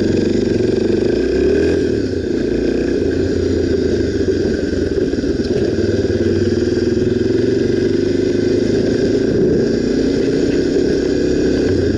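Honda XR 250 Tornado's single-cylinder four-stroke engine running steadily while the motorcycle is ridden, with only slight changes in engine speed.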